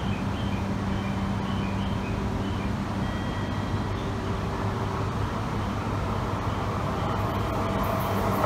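JR East E4 series double-deck Shinkansen pulling into the platform, its running noise growing louder near the end over a steady low hum.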